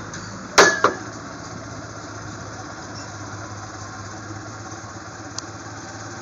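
Motorcycle engine idling steadily, with two sharp loud clunks in quick succession about half a second in.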